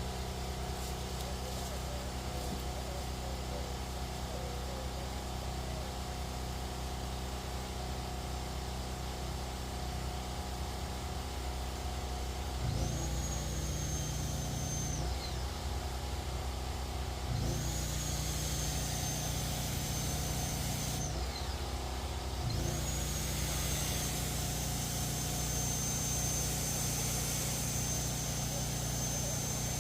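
Engine running steadily. About 13 seconds in, a deeper hum and a high whine come on together, cut out, and come on twice more, the last time staying on.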